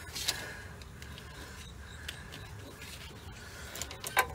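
Small metal parts and tools being handled during wheel-bearing reassembly: a scrape about a quarter second in, low handling noise, then a few sharp clicks near the end.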